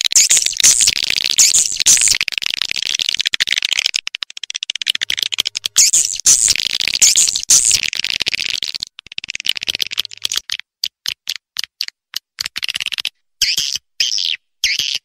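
Swiftlet calls from a recorded lure-call track: fast, buzzy chattering chirps in long bursts that break up into short separate chirps with gaps in the last few seconds.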